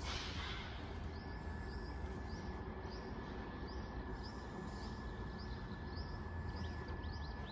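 A bird chirping repeatedly, short high chirps about twice a second, over a faint steady high tone and low rumble. At the very start the tail of a Russell's viper's loud hiss dies away.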